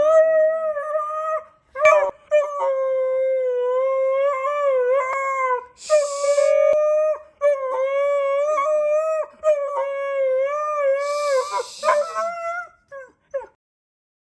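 Siberian husky howling: a run of long, steady howls with short breaks between them, trailing off into a few short yelps near the end.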